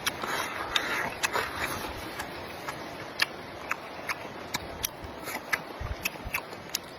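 Close-miked eating sounds: chewing with many small, irregular wet clicks and smacks, with a short noisier stretch in the first two seconds.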